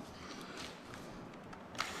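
Quiet garage room tone between bursts of drilling, with a faint click near the end.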